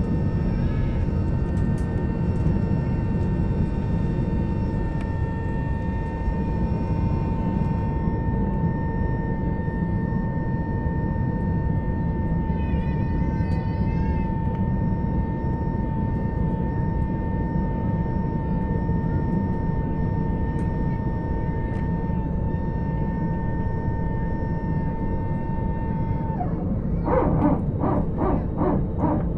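Jet airliner cabin noise: a steady low rumble with a steady engine whine. Near the end the whine stops and a rapid pulsing of about three beats a second begins.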